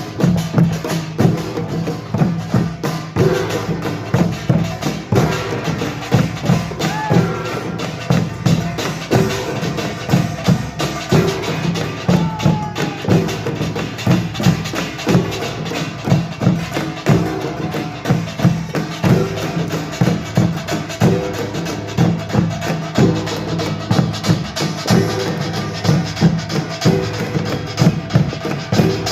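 Korean pungmul percussion band playing a fast, dense rhythm on gongs and drums, with rapid, evenly repeated strikes over a sustained low gong ring.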